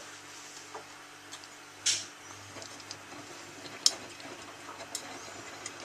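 Miele W3744 washing machine in its main wash: a steady low hum under irregular light clicks and ticks, with a sharper click about two seconds in and another about four seconds in.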